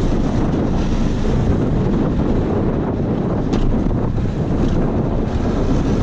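Wind buffeting the microphone, a steady rumbling noise with no clear breaks.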